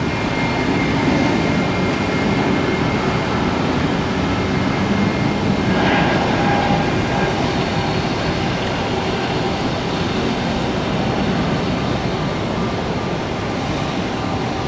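Jet airliner engines giving a loud, steady roar, with faint steady whining tones over it.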